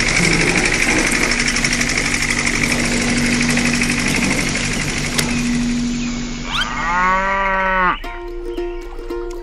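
A loud, rhythmic machine noise, like an engine sound effect, runs for about six seconds and then fades. A cow then gives one long moo, rising in pitch and then holding, about seven seconds in, and plucked-string music follows.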